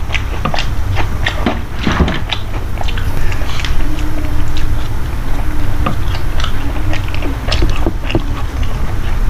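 A person chewing food close to the microphone, with many short, irregular clicks of mouth and food.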